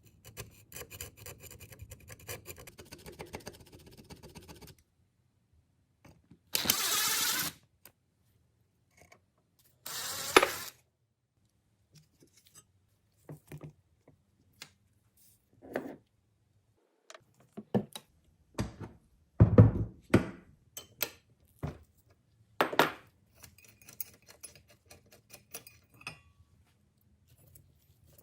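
Workshop sounds of hand tools on metal parts: a run of rattling clicks, then two hissing bursts about a second long, then scattered knocks, clinks and scrapes.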